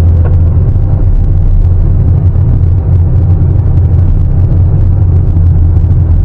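Heavy diesel engine of a Sany 750 excavator running steadily: a loud, even low drone.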